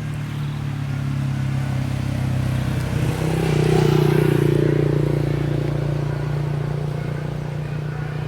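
A motor engine running with a steady low hum. It grows louder to a peak about four seconds in and then slowly fades, like a vehicle passing close by.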